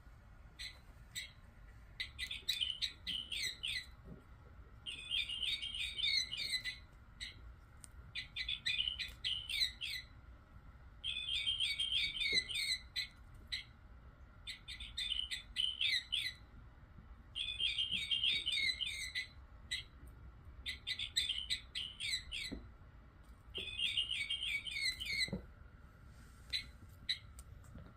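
Electronic chirping bird toy sounding in repeated bursts of rapid, high chirps, each burst a second or two long, coming about every two to three seconds.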